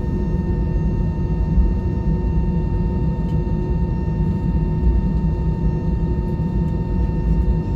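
Airbus A320 cabin noise: a steady low rumble of the engines and airframe with a thin steady whine over it.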